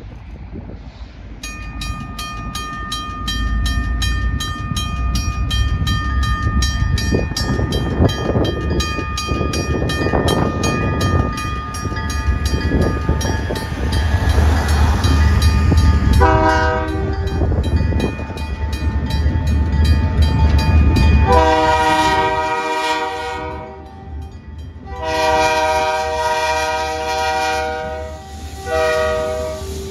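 A grade-crossing bell starts ringing about a second and a half in, in a fast, even series of strokes. Beneath it the low rumble of an approaching Canadian Pacific diesel freight locomotive builds up. From about halfway through, the locomotive's air horn sounds in several long blasts.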